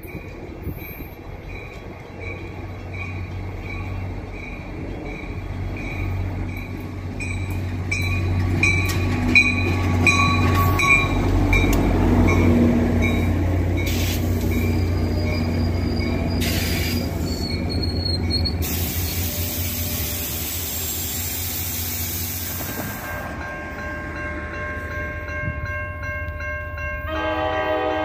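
NJ Transit commuter train pulling in past the platform: a low engine rumble and wheel noise build and peak as the stainless-steel coaches pass, with a bell ringing at a steady beat during the approach. About two-thirds of the way through comes a long loud hiss of air, and near the end a train horn sounds.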